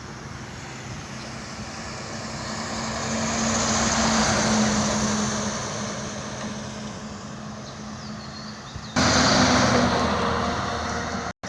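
A truck engine running as the vehicle draws closer, louder around the middle and then fading as it moves away. About nine seconds in, the sound cuts suddenly to a louder stretch of vehicle noise, which drops out briefly near the end.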